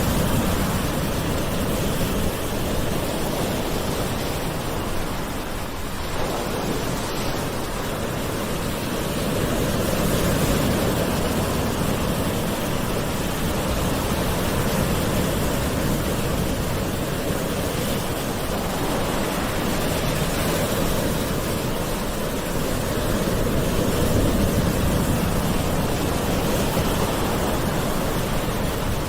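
Gentle ocean waves in a steady rush of surf, slowly swelling a little louder and easing off.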